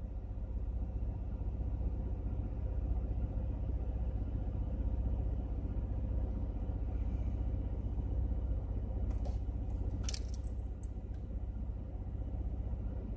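2000 Chevy Impala's 3400 (3.4 L) V6 idling steadily, with a few light clicks about two-thirds of the way through. The engine idles smoothly but stalls when the throttle is touched, a hard-start fault that the owner wonders may be the mass airflow sensor.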